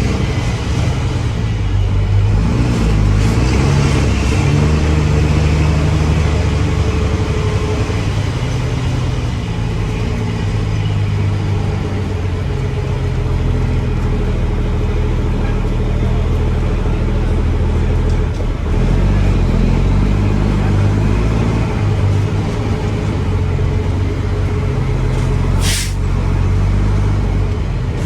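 Mack dump truck's diesel engine running steadily under load, its pitch shifting a little. Near the end comes one short, sharp hiss of released air.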